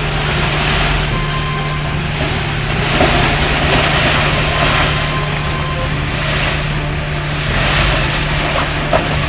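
Heavy construction machine's diesel engine running steadily, with the noise swelling louder about a third of the way in and again near the end.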